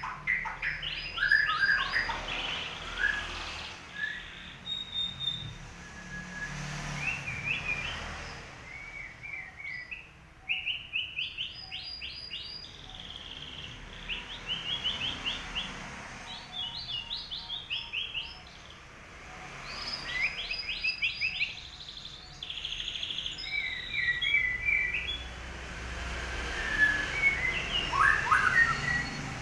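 Murai (white-rumped shama) singing in short, repeated phrases of quick chirping notes with pauses between them. The song comes out monotonous, typical of a murai whose feathers are in heavy moult.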